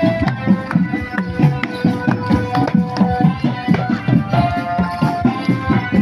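Javanese barongan gamelan music: fast, driving kendang hand-drum strokes with ringing bronze gong-chime and metallophone notes held over them.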